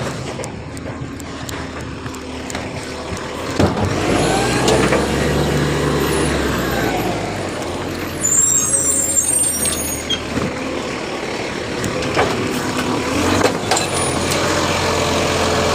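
Garbage truck's diesel engine running and pulling up to speed about four seconds in, with a high squeal about eight seconds in and a few sharp knocks.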